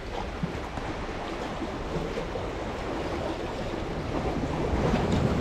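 Rough sea: waves washing in, with wind buffeting the microphone. It swells louder near the end.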